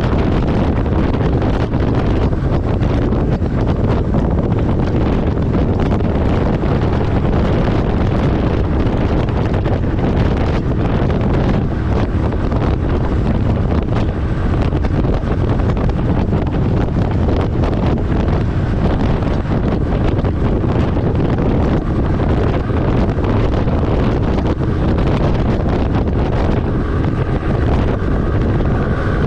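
Steady road and wind noise from a truck driving at speed, with wind buffeting the microphone.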